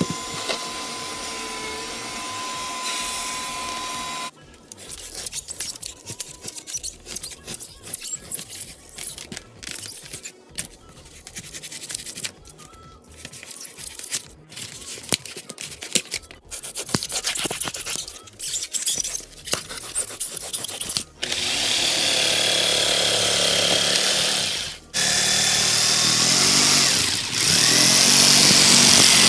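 A vacuum running through a hose, with a steady hum, cuts off about four seconds in. Then comes a long stretch of irregular scraping and clicking as the river channel is dug out. About 21 seconds in a loud power tool starts, with a whine that shifts in pitch; it stops briefly near the 25-second mark and then runs again.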